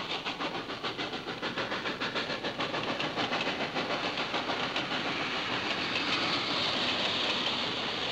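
Freight train of boxcars rolling past, its wheels clicking rapidly and evenly over the rail joints. A hiss grows louder from about five seconds in.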